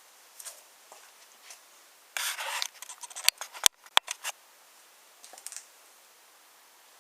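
Wooden toy trains on a wooden railway track: a brief scraping rub, then three sharp wooden clacks in quick succession and a few lighter taps.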